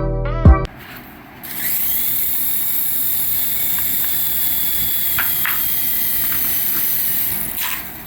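Music with a heavy beat stops under a second in. Then a small electric motor whirs steadily with a high whine for about six seconds, with a few clicks midway, and dies away near the end.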